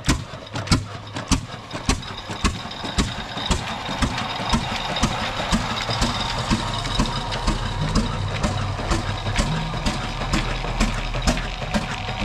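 Old Ruston-type diesel engine driving a tubewell pump, each slow firing stroke a sharp knock, roughly two a second, over a steady low running sound. It grows louder and steadier over the first few seconds as it comes up to speed after starting.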